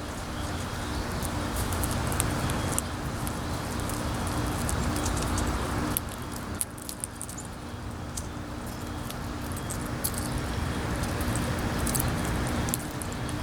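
Wind rushing and gusting on the microphone, swelling and easing, with many small sharp clicks and ticks scattered through it.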